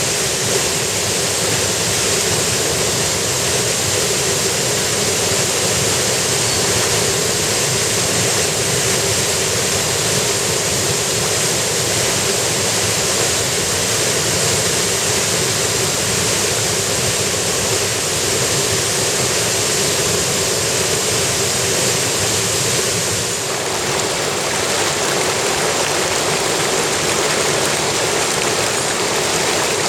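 Mountain stream rushing over rocks: a loud, steady rush of running water. The sound changes slightly about three-quarters of the way through.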